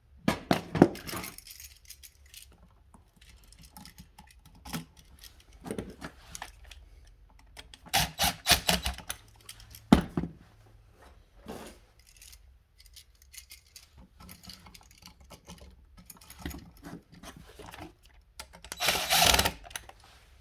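Hand tools working bare copper ground wires onto electrical receptacles: scattered metal clicks and scrapes, with louder rustling bursts about eight seconds in and near the end.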